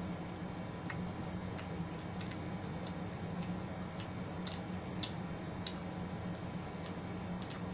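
Close-up eating sounds: wet mouth clicks and smacks of chewing, one or two a second at uneven spacing, over a steady low hum.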